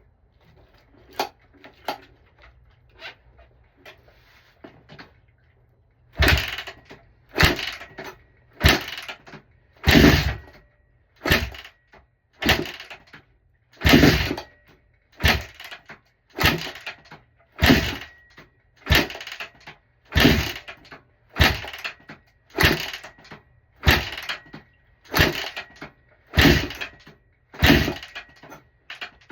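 Honda CRF150R being kick-started over and over: a kick about every second and a quarter, with the 150cc four-stroke single turning over but never firing. A few light clicks come before the kicking begins.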